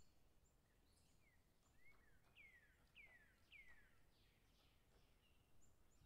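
Faint bird calls: a series of clear whistled notes, each sliding downward in pitch, clearest about two to four seconds in, with a few short, thin, high chirps over a soft background hiss.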